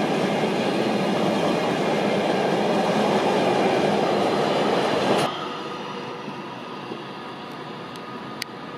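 Container freight train passing at speed: loud, steady noise of wagon wheels on the rails. It cuts off suddenly about five seconds in, giving way to the much quieter running sound of a Class 390 Pendolino electric train, with a single sharp click near the end.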